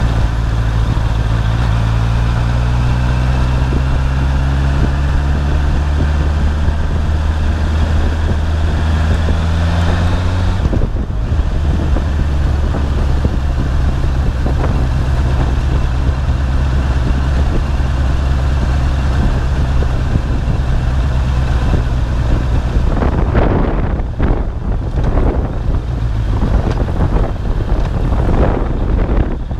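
Sport motorcycle's engine running while riding, its pitch climbing slowly for about ten seconds and then dropping about eleven seconds in. Over the last several seconds gusts of wind buffet the microphone.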